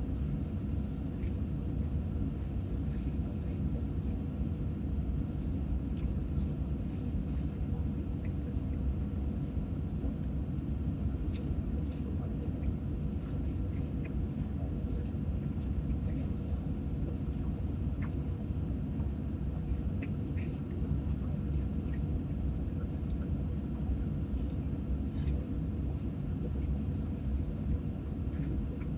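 Steady low rumble with a faint steady hum, broken by a few soft clicks.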